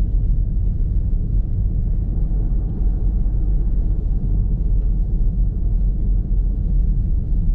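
Steady low rumble of a car driving on a snowy, icy road, heard from inside the cabin: tyre, road and engine noise.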